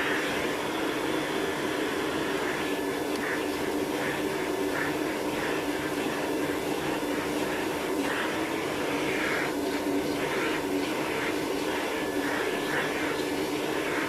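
Vacuum cleaner running steadily while grooming a dog's fur, its hiss flaring briefly every second or so as the nozzle moves.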